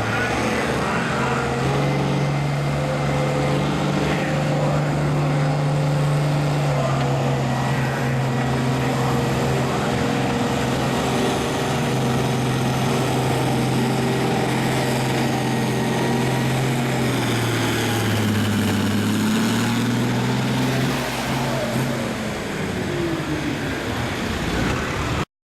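Farm tractor engine working hard under load while pulling the sled down the track, holding a steady pitch for most of the run. Its pitch sags and recovers about 18 seconds in, then drops lower and quieter from about 21 seconds on.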